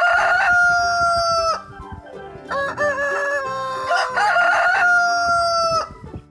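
Rooster crowing, cock-a-doodle-doo, three times in a row, each crow ending in a long held note.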